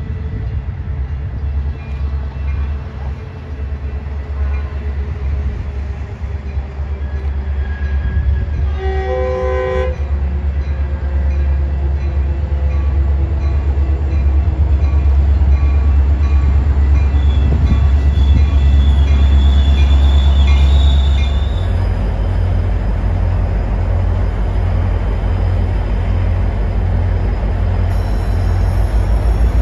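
Metra diesel commuter train running close by, its engine a loud low rumble that grows louder over the first half, with one short horn blast about nine seconds in. Thin high squeals come in later on.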